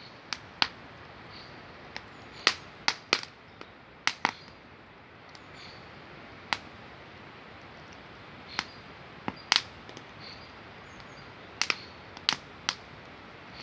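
Wood campfire crackling, with sharp pops and snaps at irregular intervals over a steady hiss.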